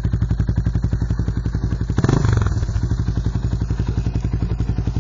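Suzuki Goose 350 single-cylinder four-stroke idling through its stock muffler converted to a straight-through perforated pipe wrapped in wool, with evenly spaced exhaust pulses. A brief rev about two seconds in.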